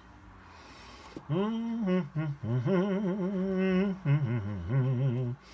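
A man humming a tune to himself. It starts about a second in, with several held notes that waver in pitch.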